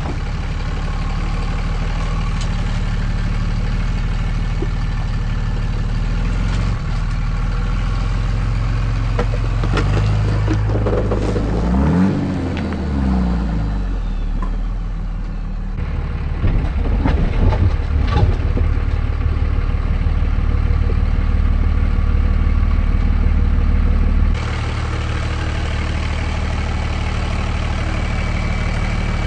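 Truck's Cummins diesel engine running at low speed on a rough off-road trail. The pitch rises and falls briefly near the middle, with knocks and rattles from the truck bouncing over rocks in the second half.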